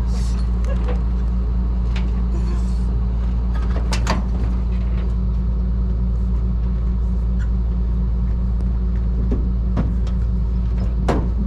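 Truck engine idling steadily, a constant low hum, with a few brief sharp clicks about four seconds in and again near the end.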